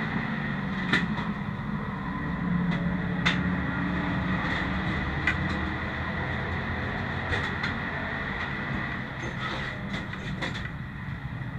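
A 1932 Ford Super Modified's 300 cubic inch straight-six running steadily, heard onboard, with scattered sharp clicks and rattles from the car. It gradually gets a little quieter toward the end.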